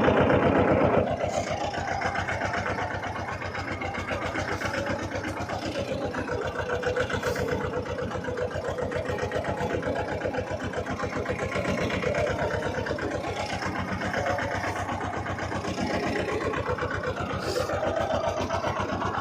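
Tractor engine running steadily with evenly spaced firing pulses, a little louder for the first second.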